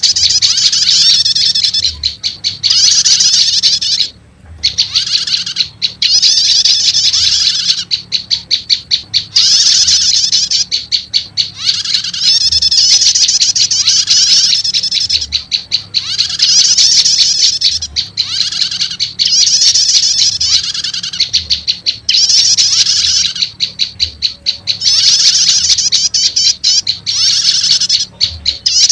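Bird-lure recording of prenjak lumut calls mixed with another prenjak call: loud, high, rapid chattering phrases about a second long, repeating with short gaps. A faint low hum runs underneath.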